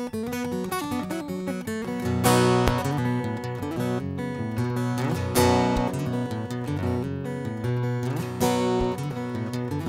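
Acoustic guitar playing a song's intro: picked notes at first, then strummed chords with a strong accent about every three seconds.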